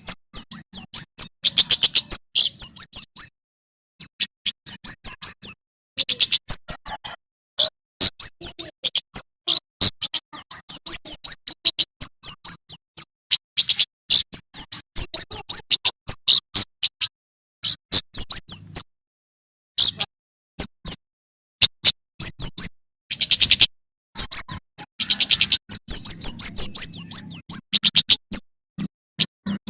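Male prenjak keres (kemade) singing: rapid strings of high, sharp chirps in bursts of a second or two, separated by short pauses.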